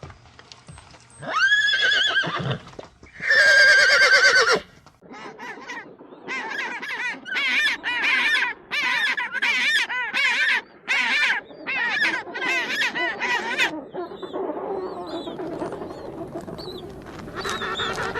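Bird calls: two drawn-out calls in the first five seconds, then a run of about a dozen short, wavering calls in quick succession, then softer calls and one more near the end.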